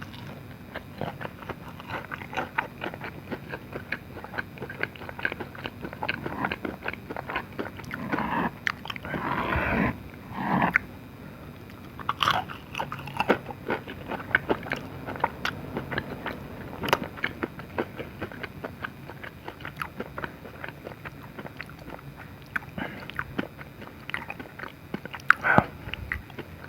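Close-miked chewing and biting of dim sum: many small wet mouth clicks and crunches, with a louder, longer noisy stretch about eight to ten seconds in.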